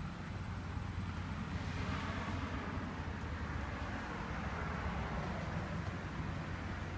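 A steady low rumble of road traffic, with a vehicle passing by that swells about two seconds in and fades away.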